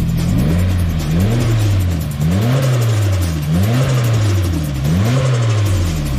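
Modified Nissan 200SX S14a engine being revved over and over, its pitch climbing and dropping back about five times, roughly once a second.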